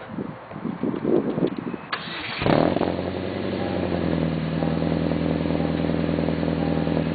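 The 2004 Chevrolet Cavalier's Ecotec four-cylinder, breathing through an aftermarket Tsudo header, 2.5-inch high-flow catalytic converter and RSE cat-back exhaust, starts up suddenly about two and a half seconds in. It then settles into a steady idle, its pitch easing down slightly after the start. Some irregular knocking and rustling comes before it.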